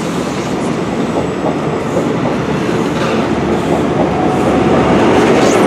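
Train running at close range: a dense, steady rumble that slowly grows louder.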